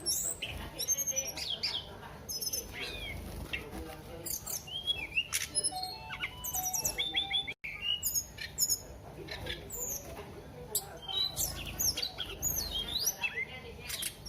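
Tledekan songbird singing hard: a rapid, continuous run of high chirps, sweeping whistled notes and short trills, with a brief break about halfway through.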